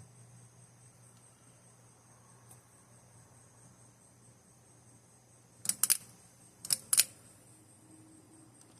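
Two quick clusters of sharp clicks about a second apart, a ceiling fan's pull-chain switch being pulled, over steady cricket chirping and a low hum.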